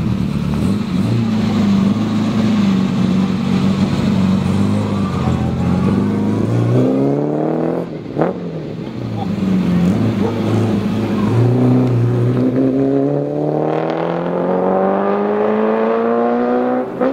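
Siata 208 CS coupe's Fiat-built 2-litre V8 running at low revs, then accelerating away: the pitch climbs, breaks off sharply about eight seconds in, and climbs steadily again over the last six seconds.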